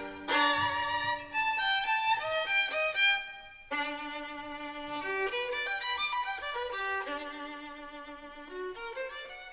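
Background music led by a violin playing a melody of quick, shifting notes.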